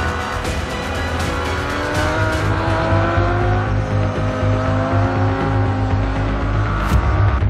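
Ducati racing motorcycles at full throttle, the engine note rising in pitch as they accelerate, twice over. Under it runs background music with a steady bass beat.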